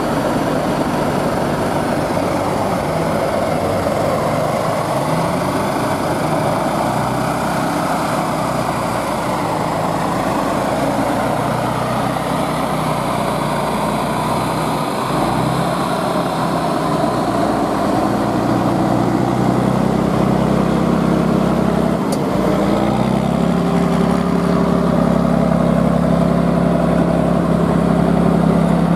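Competition truck's engine working hard on an off-road trial course, its note rising and falling as it is revved; in the second half the pitch climbs and holds higher and a little louder.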